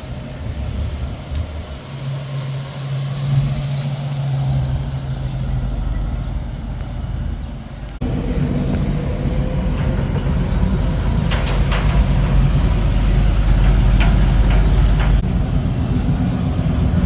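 Car engines running. About halfway through the sound cuts abruptly to a louder, deeper engine sound with a few sharp clicks.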